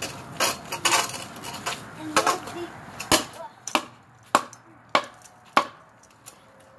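Wood being chopped with sharp strikes, likely branches cut for skewers or kindling. The strikes come irregularly at first, then settle into a steady run of about one every half second.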